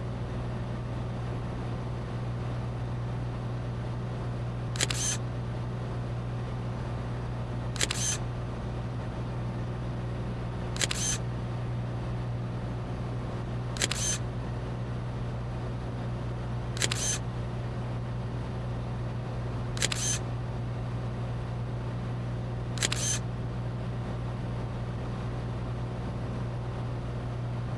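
Camera shutter clicking seven times, evenly about every three seconds, over the steady drone of a Cessna 182T's Lycoming IO-540 engine and propeller heard inside the cabin.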